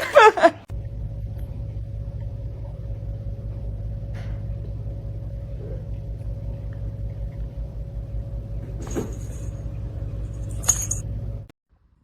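A steady low rumble with a faint hum above it, cutting off suddenly near the end, with two short higher sounds about nine and eleven seconds in.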